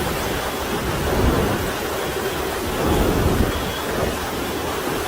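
Hurricane wind and driving rain buffeting the microphone, a steady rushing noise that swells in gusts.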